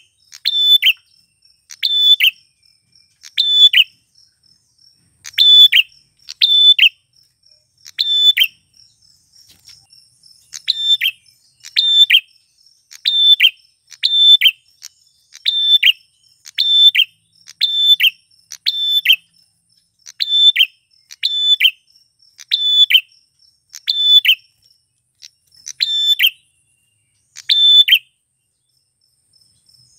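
Male prenjak (prinia) calling: a loud, sharp chirp repeated about once a second in long runs, pausing briefly about ten seconds in and again near the end.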